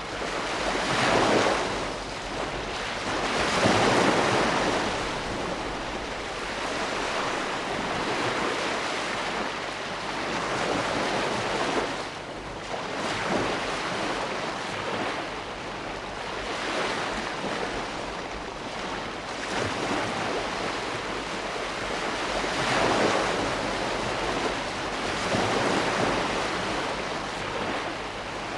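Ocean waves breaking and washing on a shore, a steady rush of surf that swells louder every few seconds as each wave comes in.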